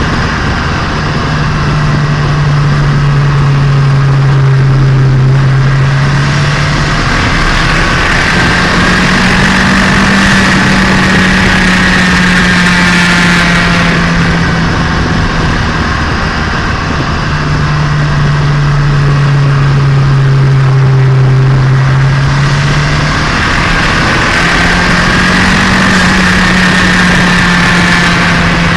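Turbocharged Nissan Micra engine running during its break-in drive, heard onboard over road and wind noise. The engine note holds steady and shifts between a lower and a higher pitch a few times.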